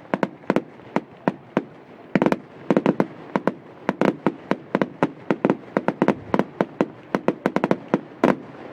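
Fireworks going off: a dense, irregular run of sharp bangs and cracks, several a second, some coming in quick clusters.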